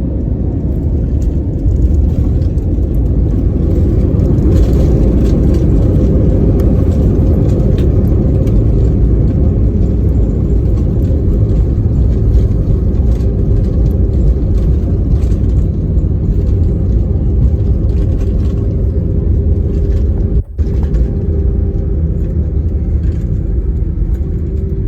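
Steady, loud low rumble of an Airbus A320 landing. A faint steady tone joins in over the last few seconds, and the sound drops out briefly about twenty seconds in.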